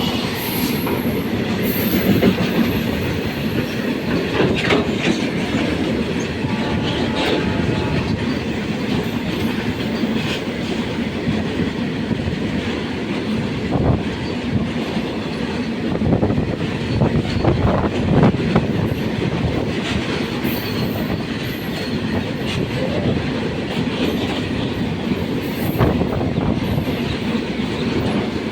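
Freight train of tank wagons rolling past at a steady pace: a continuous rumble with the wheels clicking over rail joints. Brief high-pitched wheel squeal comes in now and then as the wagons take the curve.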